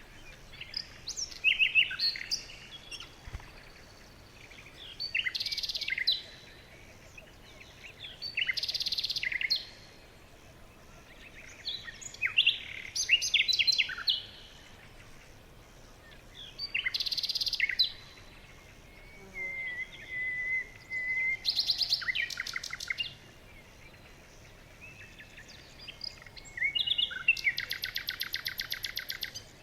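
Songbirds singing: short bursts of high chirps and trills every three to four seconds, with a long, fast trill near the end.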